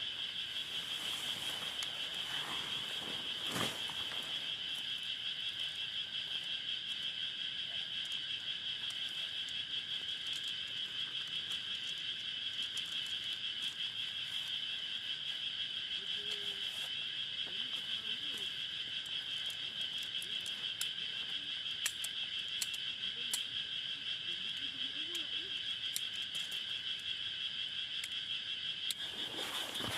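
Steady, high-pitched trilling chorus of forest insects at dusk, with a few faint clicks.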